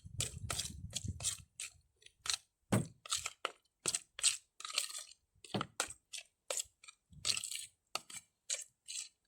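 A spoon stirring sliced raw chicken through mango chutney in a bowl: a run of short wet clicks and scrapes, a couple a second, with brief pauses.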